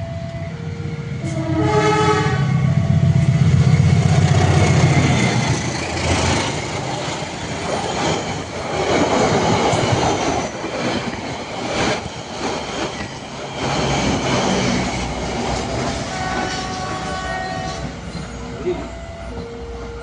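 A diesel locomotive sounds its horn about two seconds in and passes with its engine running loud, followed by about ten seconds of carriages clattering over the rails. A level crossing's alternating two-tone warning alarm sounds at the start and again near the end.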